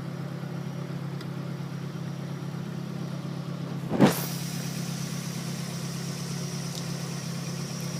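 Car engine idling with a steady low hum, and one sharp thump about four seconds in.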